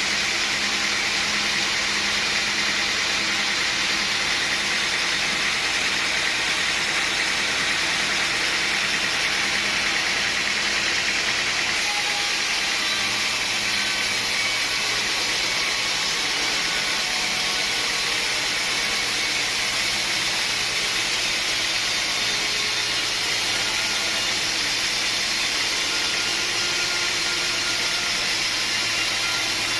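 Sawmill machinery running steadily: a continuous engine-driven mechanical noise with a hiss-like upper band, its low hum dropping to a deeper pitch about twelve seconds in.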